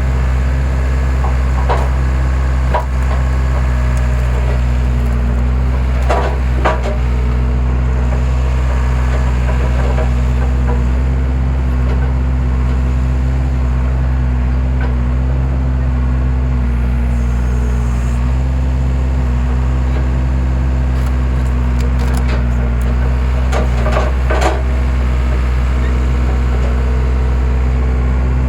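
Skid steer engine running steadily while the hydraulic splitter forces wood apart, with sharp cracking and splintering of the splitting logs, loudest about six seconds in and again near the end.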